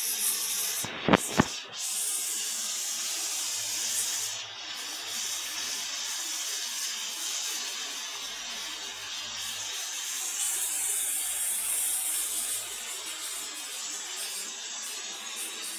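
Prawns and tomatoes frying in oil in an aluminium kadai, a steady sizzle. Two sharp clicks about a second in.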